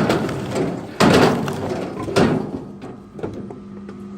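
Heavy wooden knocks, four in all, about one a second, each sharp at the start and dying away quickly: pieces of firewood striking wood.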